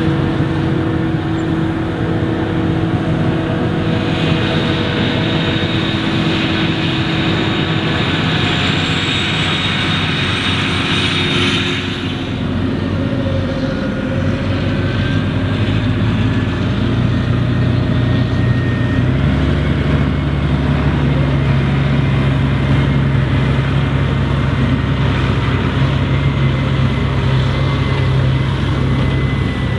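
Maize harvesting machinery running steadily: the V12 diesel of a Claas Jaguar 980 forage harvester at work. A rushing hiss joins from about four seconds in and stops about twelve seconds in, and a deeper engine drone becomes stronger and louder from about nineteen seconds in.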